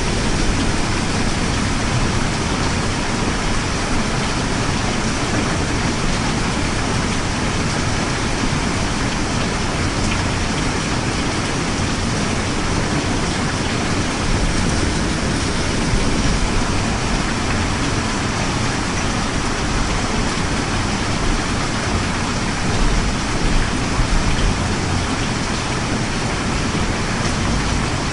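Steady rain falling, an even continuous hiss of rain ambience.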